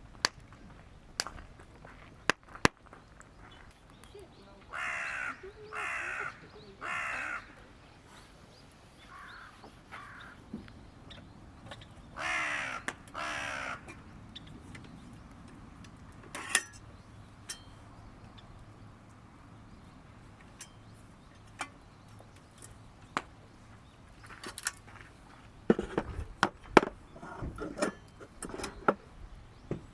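Crows cawing: three harsh caws, then two fainter ones, then two loud caws about halfway through. Sharp pops and clicks are scattered throughout, bunching near the end.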